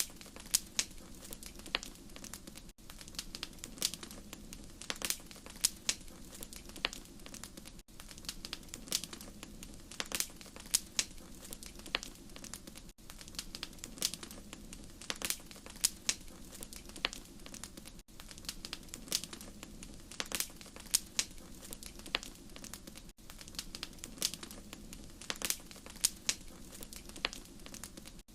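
Wood fire crackling: irregular sharp pops and snaps over a low, steady rumble, with a brief gap about every five seconds.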